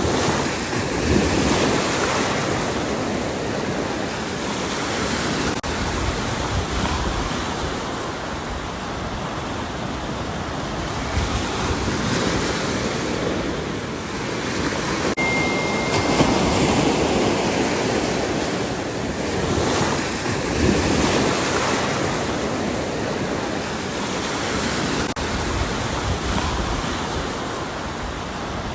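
Ocean surf breaking and washing ashore, a steady rush that swells and eases every few seconds as waves come in. A brief, thin, high steady tone sounds about halfway through.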